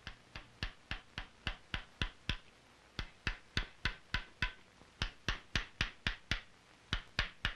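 Round gouge being tapped into a wooden rifle stock to rough out the barrel channel. It makes a steady series of sharp knocks, about three to four a second, with brief pauses twice.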